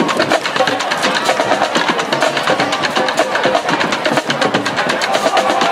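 Drums playing a fast, busy rhythm of snare-drum strikes with bass drum underneath.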